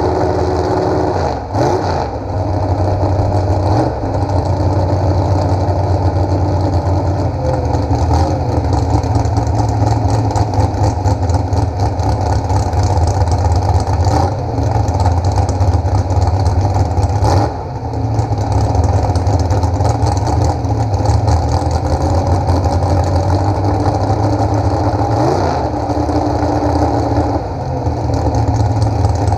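An engine running steadily at idle, with brief changes in speed a few times.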